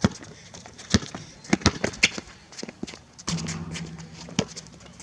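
Basketball bouncing on an outdoor court amid players' footsteps: a run of sharp, irregular thuds. A little past three seconds in, a steady low hum lasts about a second.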